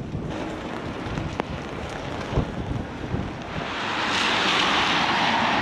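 Heavy rain and gusting wind on the microphone, a steady hiss that swells louder about three and a half seconds in.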